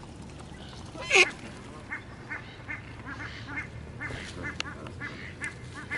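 Barnacle geese calling: one loud call about a second in, then a run of short, repeated calls, roughly three a second.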